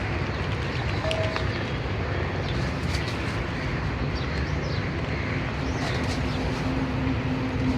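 Steady low rumble of outdoor traffic-like noise with a few short bird chirps. A low steady hum comes in about five and a half seconds in and grows toward the end.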